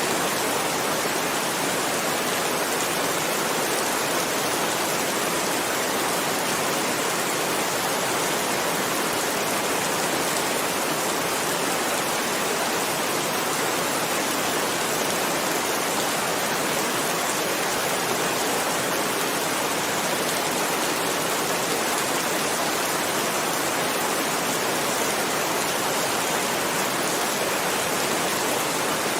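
Heavy rain falling steadily, a dense, even hiss with no thunder or breaks.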